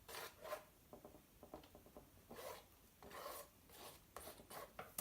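Faint, brief rubbing and scraping strokes, a few of them a second or so apart with small ticks between, from hands working paint cups and supplies over the canvas.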